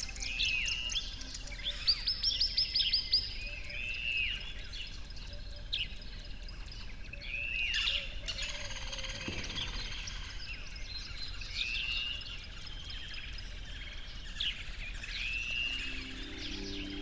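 Songbirds calling. A short arched call repeats every couple of seconds, and a quick run of rapid high notes comes about two seconds in.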